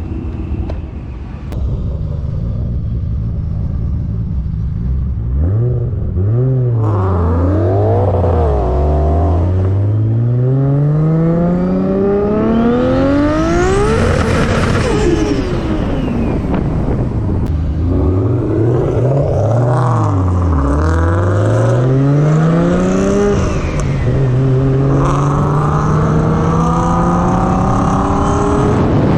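The engines of a built single-turbo 2JZ Supra and a Paxton-supercharged Mustang 5.0 accelerating hard in a roll race from 50 mph. After a steady cruise, the engine pitch climbs and drops again and again through the gear changes, with a high whine peaking about halfway. The sound eases to a steady, slowly rising note near the end.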